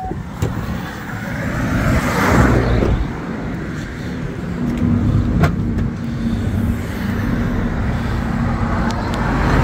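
Road traffic noise: a steady low rumble, with a vehicle passing about two seconds in and another near the end.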